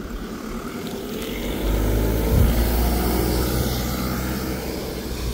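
A motor vehicle's engine running with a low, steady hum, growing louder about a second and a half in and then holding.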